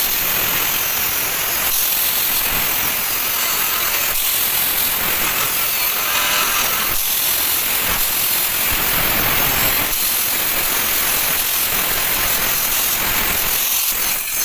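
A power tool running steadily on metal.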